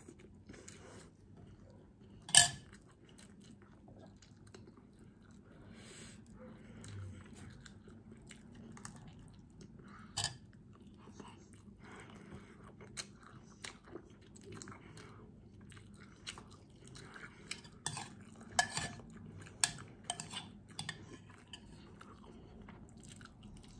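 Close-up chewing of rice and milkfish, with sharp clicks of a metal spoon against a bowl, the loudest about two seconds in and a cluster of them near the end.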